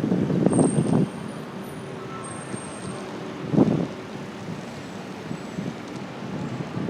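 Rattle and road rumble from a phone mounted on a bicycle's handlebars, with a burst of jolting knocks in the first second and another about three and a half seconds in.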